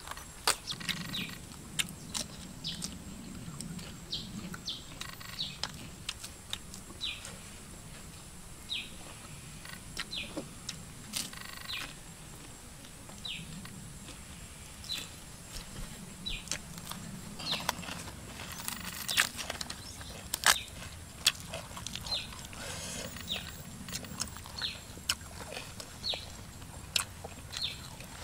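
Short, falling bird chirps repeat every second or two, with scattered sharp clicks and knocks between them.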